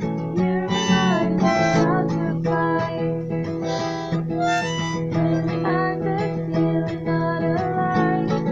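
Harmonica played over strummed acoustic guitar: held harmonica notes, some bending in pitch about a second in, above steady guitar chords.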